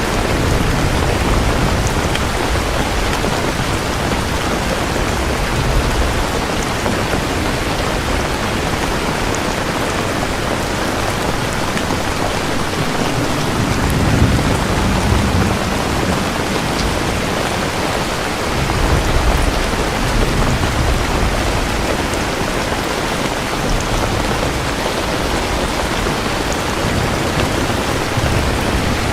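Steady heavy rain, with low rolls of thunder swelling about halfway through and again about two-thirds of the way in.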